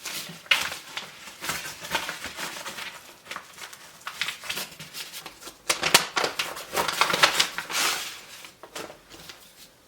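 Rummaging through a box of tractor parts and manuals: rustling of paper and packaging with irregular handling noises, busiest about six to eight seconds in.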